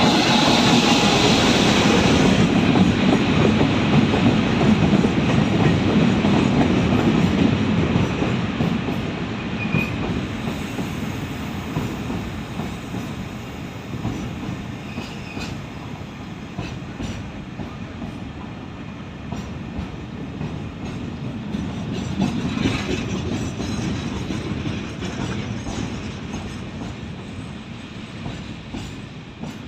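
A train passing close by, its wheels clattering over the rails: loudest for the first several seconds, then easing off, with a second swell about three-quarters of the way through.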